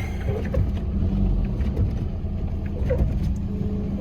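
Steady engine and road drone heard from inside the cabin of a Force Gurkha 4x4 on the move, with a few faint knocks.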